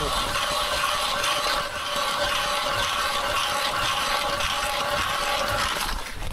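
A geared mechanism whirring steadily, with several fixed tones over a hiss, that stops shortly before the end.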